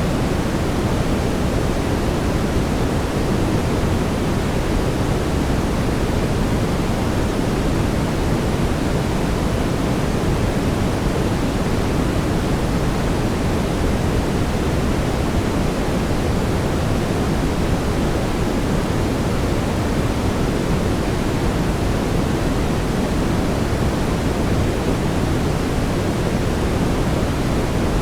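Steady brown noise: an even, deep rushing hiss, heaviest in the low end, with no changes or events.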